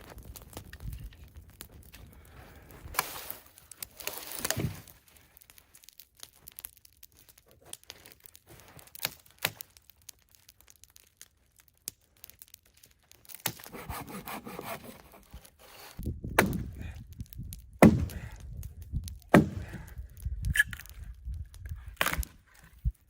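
Dry sticks being snapped and piled while a campfire is built: irregular sharp cracks and rustling, with several loud thumps in the second half.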